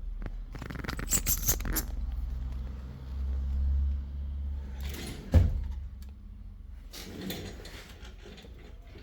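Handling noise as a cable receiver's case is opened: clicks and scraping for a couple of seconds, a low hum for about two seconds, then one sharp knock about five seconds in, followed by quieter handling.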